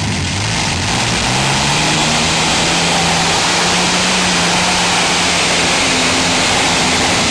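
Tractor engine at full throttle under heavy load, rising in pitch over the first second or so and then held steady at high revs while it drags the pulling sled.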